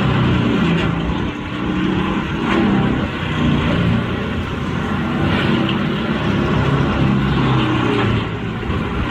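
Heavy diesel machinery running under load, its engine note rising and falling steadily over a dense mechanical din.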